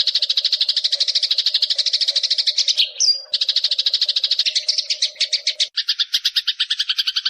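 Eurasian tree sparrow chirping in a rapid, unbroken run of short chirps, with a brief break about three seconds in. This is the excited, vigorous chirping that bird keepers play to train other songbirds.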